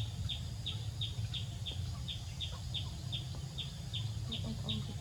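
A bird chirping steadily, one short high chirp falling in pitch about three times a second, over a low rumble.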